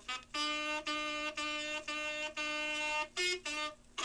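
A wind instrument blown in a row of steady, separate notes at nearly one pitch: five longer notes, then two short, slightly higher ones near the end.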